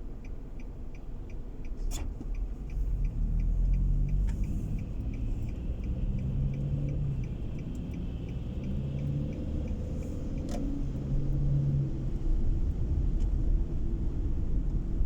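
A car driving, heard from inside: steady low road and engine rumble, with the engine note rising and falling in the middle. The turn-signal indicator ticks steadily for the first few seconds, and two sharp knocks come about 2 seconds in and about 10 seconds in.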